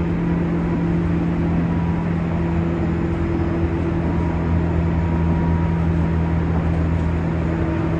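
Running noise inside a JR West 201 series motor car: wheels rumbling on the rails under a steady hum of several tones from the traction motors and running gear, as the train nears a station.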